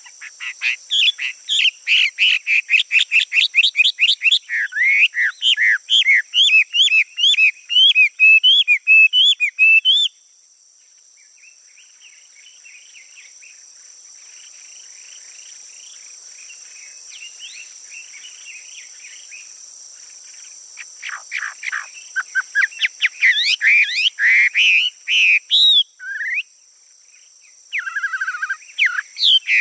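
A male songbird singing loud, rapid runs of repeated sweeping whistled notes. The song breaks off about ten seconds in for quieter twittering, then starts again in the last third. Underneath is a steady high insect buzz.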